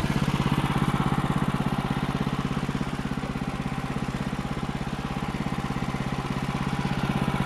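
Engine idling steadily with an even firing beat.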